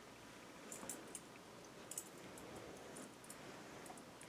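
Faint, scattered soft clicks over a low background hiss.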